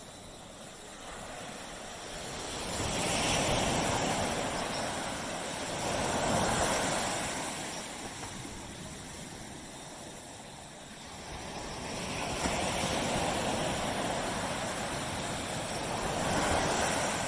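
Waves breaking on a beach and washing back, the surf swelling and easing four times.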